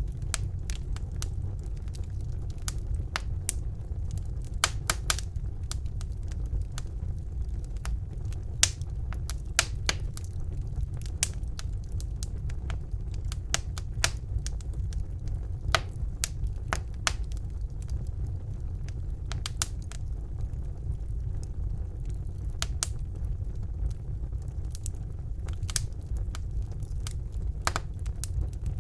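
Wood fire burning in a fireplace: a steady low rumble of flames with irregular crackles and pops, a few sharper snaps standing out.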